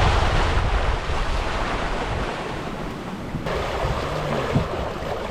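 Wind buffeting the microphone over the rush of water past a sailboat's hull while under sail. The wind rumble eases and the sound changes abruptly about three and a half seconds in.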